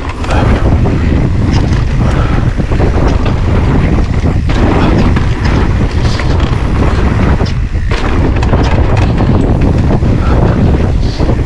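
Loud, continuous rumbling wind buffeting on a GoPro's microphone, mixed with the rattle and crunch of an electric mountain bike riding fast over a rough woodland trail.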